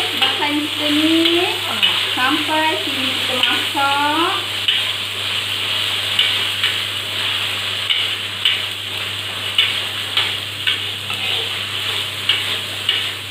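Curry base of ground dried chilli paste, onion, garlic and ginger frying in a wok: a steady sizzle, with a metal spatula scraping and clicking against the wok as the paste is stirred. The paste is being sautéed until fragrant, before the curry powder goes in.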